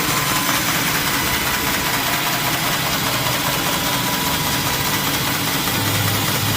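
Steady running of sawmill machinery driven by an engine, an even mechanical noise, with a deeper hum joining near the end.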